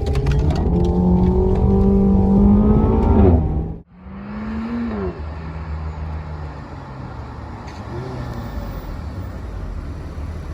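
Renault Mégane RS's 1.8-litre turbocharged four-cylinder engine accelerating hard, its pitch climbing for about three and a half seconds. It cuts off abruptly, then the engine note falls and runs on more quietly with road noise.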